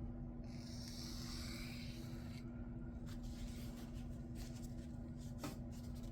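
Knife blade stroked along a sharpening stone, a scraping rub for about two seconds, then several shorter scrapes and a sharp click near the end, over a steady low hum. These are light deburring strokes against a sticky burr that is still on the edge.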